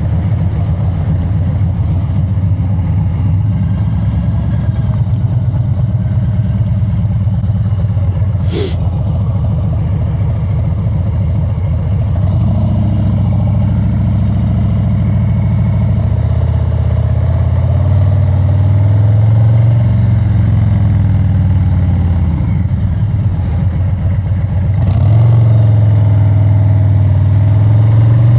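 Harley-Davidson Street Bob 114's Milwaukee-Eight 114 V-twin running through an aftermarket SP Concepts exhaust while riding: a loping, pulsing rumble at low revs, then pulling harder and louder at about 16 seconds and again near the end. A single sharp click about eight seconds in.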